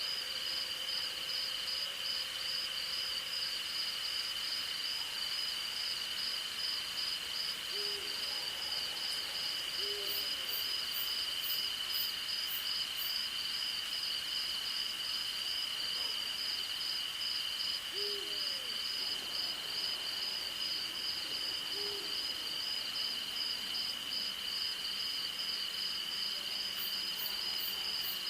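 Night chorus of crickets and other insects: a steady high trill with a pulsing trill above it, and a faster high ticking insect briefly near the middle. An owl gives short single hoots four times, two close together about a third of the way in and two more past halfway.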